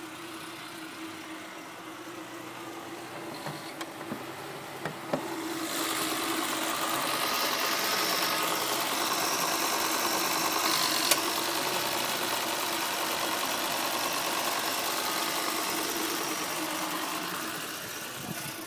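1991 Citroën XM's engine idling steadily with a constant hum, growing louder about six seconds in as the open engine bay comes close.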